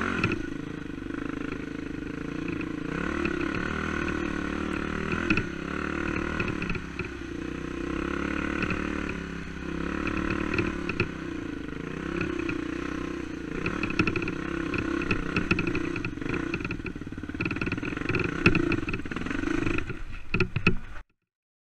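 Four-stroke single-cylinder dirt bike engine running at low, varying revs while riding over rough ground, with scattered clattering knocks. The sound cuts off suddenly near the end.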